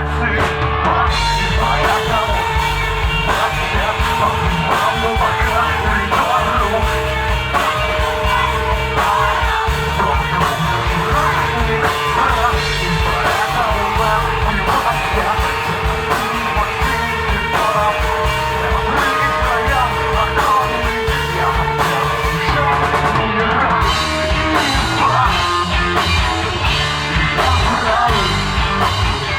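Live alternative rock band playing a song, with loud sung and shouted vocals over drums and amplified instruments.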